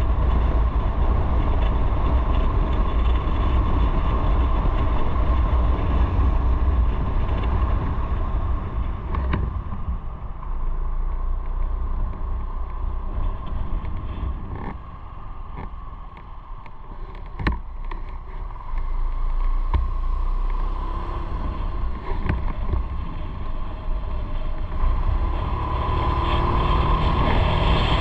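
Motorcycle on the move, recorded from the bike: a steady low rumble of wind and engine. It eases off and goes quieter for several seconds in the middle, with a few short knocks, then builds again, with a steady engine tone near the end.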